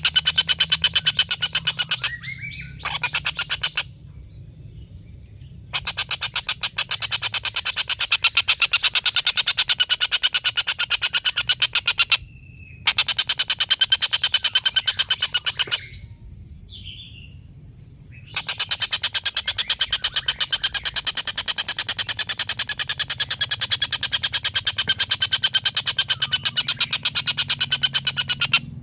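Tengkek buto kingfisher giving its long chattering 'ngekek' call: fast runs of sharp notes, many a second, in long bouts broken by a few short pauses.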